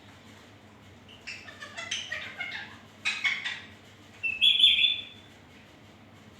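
Ringneck parakeet calling: two spells of rapid chattering, then a short, loud shrill call about four and a half seconds in.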